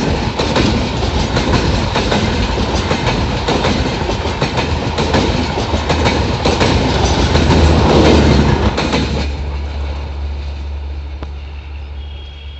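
Express train passenger coaches rushing past close by, their wheels clattering over the rail joints in a dense rumble. About nine seconds in, the last coach goes by and the sound drops suddenly to a low rumble that fades as the train draws away.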